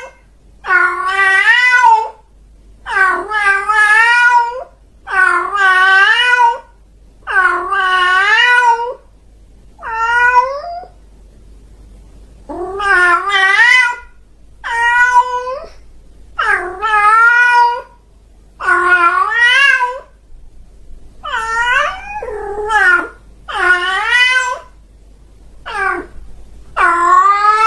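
A domestic cat meowing over and over: long, drawn-out meows with a wavering pitch, one about every two seconds.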